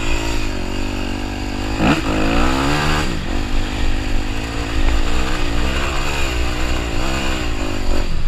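Dirt bike engine pulling in first gear, its pitch rising and falling as the throttle is opened and eased off, with wind rumbling on the microphone.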